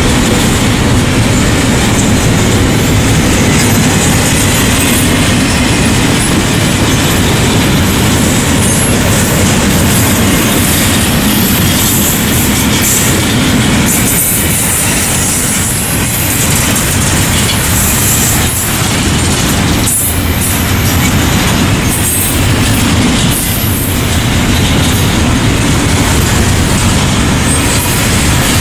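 CSX double-stack intermodal freight train rolling past close by: a steady loud rumble of steel wheels on rail, with scattered clicks as the well cars pass over the rail joints.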